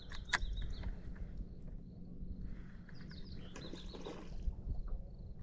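Birds calling in short chirps, a few around the start and again near the end, over a steady low hum, with one sharp click about a third of a second in.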